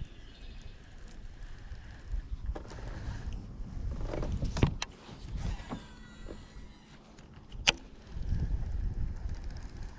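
Wind buffeting the microphone in uneven gusts, with two sharp clicks about five and eight seconds in and a faint whirring between them.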